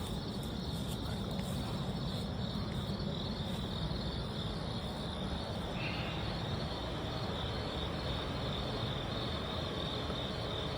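Crickets chirping in a steady, evenly pulsing chorus over a low, steady background rumble.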